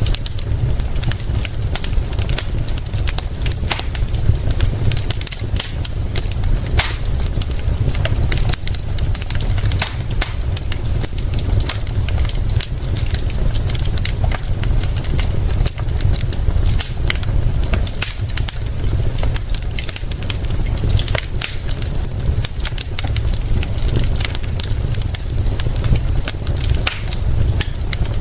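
Wood fire crackling with frequent sharp, irregular pops, over a steady hiss of rain and a constant low rumble.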